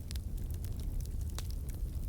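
Wood fire in a fireplace crackling: scattered sharp pops and ticks over a low steady rumble, with one louder pop about one and a half seconds in.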